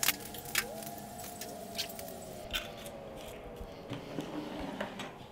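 Drink poured from a plastic bottle into a metal cup, with a faint tone rising near the start. Scattered light knocks and clinks follow as bottles and the cup are handled on a tabletop.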